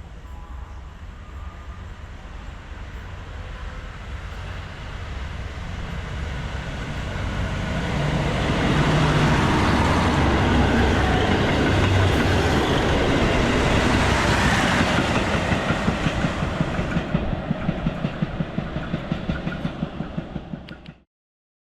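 A diesel tourist train passing through the station at speed. The rumble builds over several seconds to a loud pass-by, then a quick run of regular wheel clacks over the rail joints, and it cuts off abruptly near the end.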